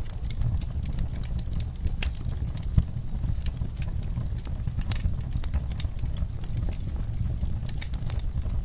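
Wood fire crackling in a fireplace: a steady low rumble of the flames with frequent irregular pops and snaps, one louder pop a little before the middle.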